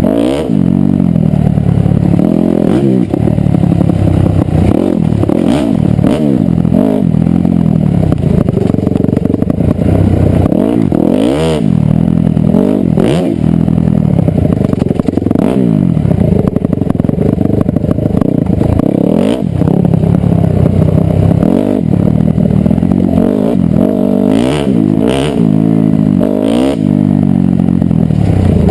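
Dirt bike engine being ridden hard, the revs rising and dropping over and over as the throttle is opened and closed, with a few sharp knocks and clatter along the way.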